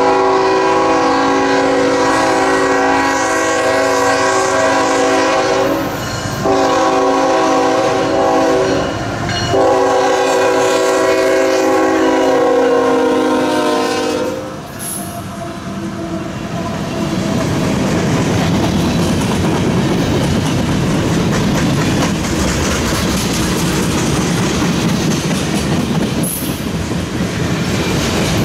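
A CSX freight train's diesel locomotive horn sounds a chord of several tones in three long blasts, with two brief breaks, and stops about halfway through. Then the diesel locomotives pass close by, and a long string of freight cars rolls past with steady wheel clatter and rumble.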